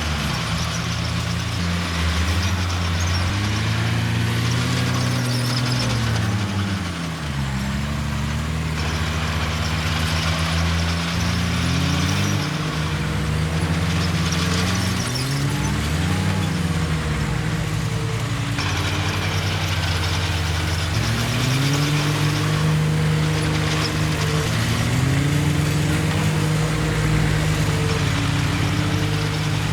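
Heavy diesel engines of earthmoving machinery running, their pitch rising and falling every few seconds as they rev up and ease off under load.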